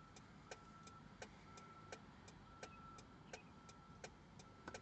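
Faint, steady ticking from inside a truck, about three ticks a second, with a short high beep about once a second.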